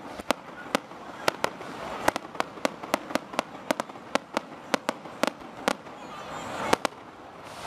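Aerial firework shells bursting in quick succession: sharp bangs about three or four a second, thinning to a couple of louder bangs near the end.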